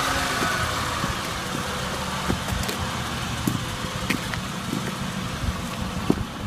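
A 2006 Acura MDX's V6 running steadily, heard as an even engine and road-noise wash with a few light clicks.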